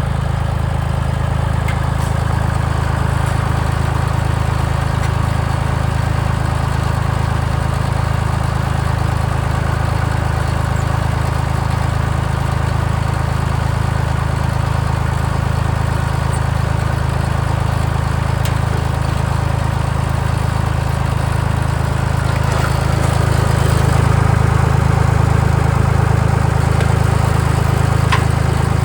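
Massey Ferguson 230 tractor engine running steadily with a low, even hum, getting a little louder for a few seconds near the end.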